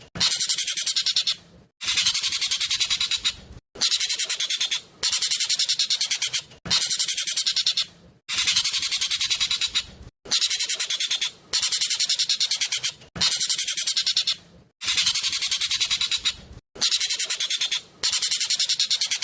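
Jovin (ekek keling) song: loud, high-pitched bursts of very rapid repeated notes, each burst lasting about a second and a half, coming about every two seconds with brief gaps between.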